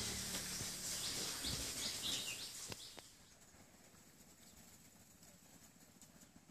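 Outdoor ambience with birds chirping, which fades to a faint hiss about three seconds in, with a single click just before the fade.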